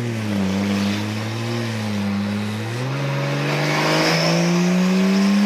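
Big-turbo BMW M240's turbocharged straight-six heard from inside the car, running at a fairly even pitch and then climbing steadily in revs from about three seconds in as the car pulls under boost. The driver says it is breaking up badly at high boost.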